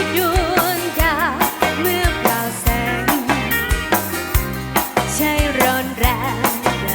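Live band playing a song: drum kit and bass keep a steady beat under a melody line with wide vibrato.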